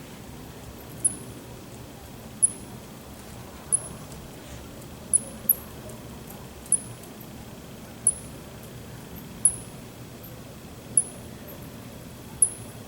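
A fruit bat giving short, very high-pitched chirps, each falling slightly in pitch, repeated at a steady pace of about one every second and a half; two come close together about five seconds in.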